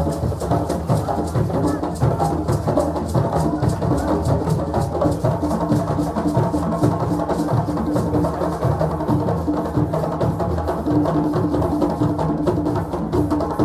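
West African drumming at a celebration: several hand drums playing a fast, dense, steady rhythm.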